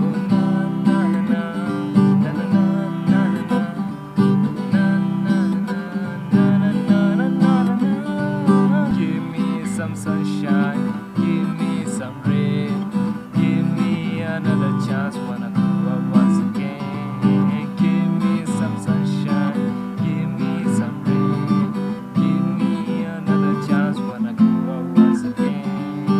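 Acoustic guitar strummed in a steady rhythm, moving through a chord progression.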